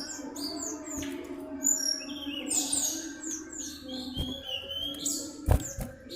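A common iora (sirtu/cipow) chirping: a busy run of quick, high, mostly falling notes. Several sharp knocks sound in between, the loudest about five and a half seconds in, over a steady low hum.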